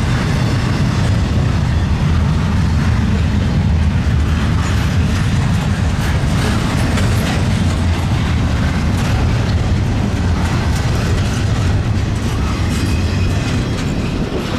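Norfolk Southern freight train rolling past: a steady, loud low rumble, with the wheels clicking over the rail joints.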